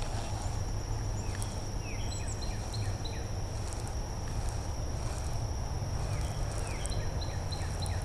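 Outdoor creek ambience: a bird calling in two runs of short, quickly repeated down-slurred chirps, over a steady high insect buzz and a low rumble.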